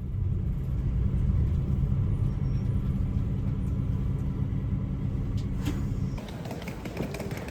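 Low, steady rumble of a motor vehicle, easing off about six seconds in into rougher, broader noise.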